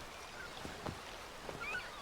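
Faint outdoor background noise with a few soft knocks and, near the end, brief faint high chirps.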